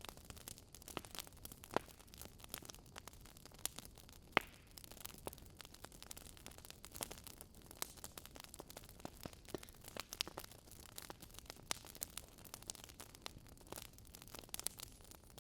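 Wood fire crackling: irregular sharp pops and snaps over a soft hiss, with one louder pop about four seconds in.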